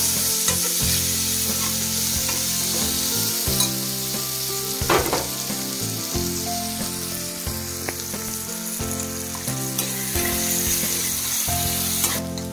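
Chopped onions, tomatoes, curry leaves and dried red chillies sizzling in hot oil in a stainless steel kadai, stirred with a steel spoon, with a few scrapes of the spoon on the pan. A low hum that shifts in steps runs underneath.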